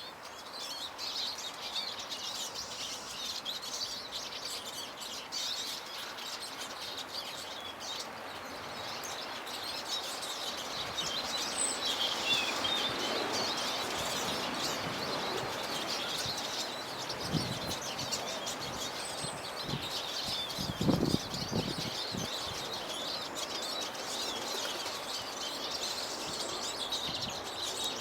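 Small garden songbirds at feeders, chirping and twittering continuously, with a few low thumps about two-thirds of the way through.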